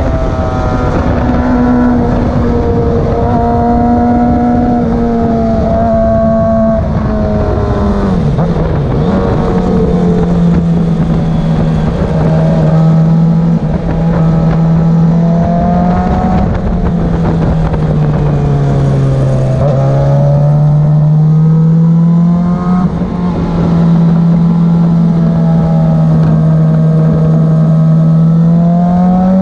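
Motorcycle engine running at speed on a racetrack, with its pitch holding and then shifting as the throttle changes: a drop about eight seconds in, and a dip to its lowest a little before two-thirds of the way through before it climbs back. Heavy wind rush runs underneath.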